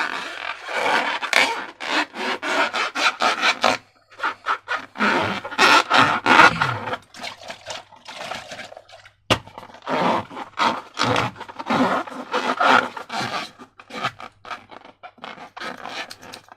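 Repeated irregular scraping and rubbing strokes of hands working slime-making materials, with a sharp click about nine seconds in.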